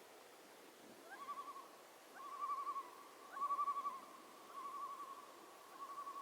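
A bird calling over and over: a series of short quavering trills on one pitch, about one a second.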